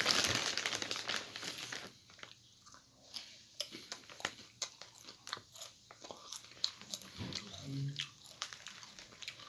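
Thin Lay's Cheddar Jalapeño potato chips being bitten and chewed close to the microphone: a dense burst of crunching in the first two seconds, then a run of smaller, scattered crunches.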